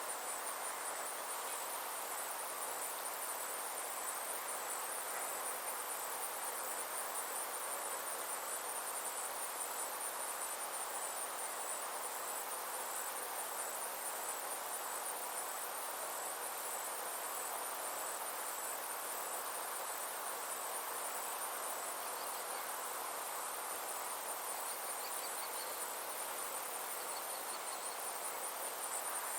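Summer insects chirring in a steady, high-pitched, finely pulsing trill that never stops, over an even background hiss.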